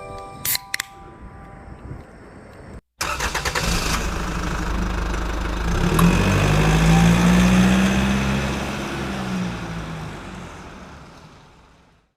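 An engine cranks with a few quick stutters, catches, and runs with a steady low hum. It swells briefly and then fades out. Before it come two sharp clicks and the last ringing tones of music.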